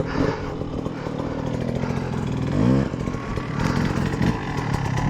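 Dirt bike engine running under throttle on a hill climb, with one sharp burst of revs about two and a half seconds in.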